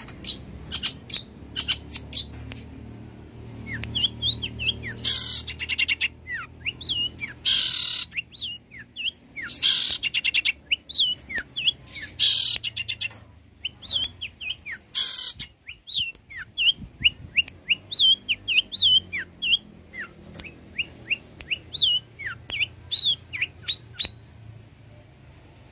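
Long-tailed shrike singing a fast, varied song of short sharp whistles and quick down-slurred notes, with loud harsh rasping notes every two to three seconds. The song stops about a second and a half before the end.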